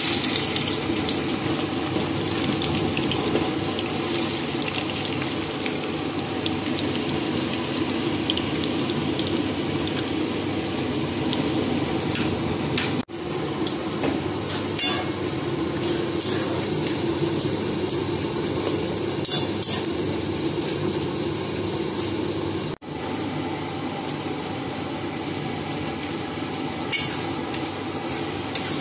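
Sliced onions sizzling steadily as they fry in hot oil in a wok, with a spatula scraping and clinking against the pan now and then as they are stirred. The sound cuts out briefly twice.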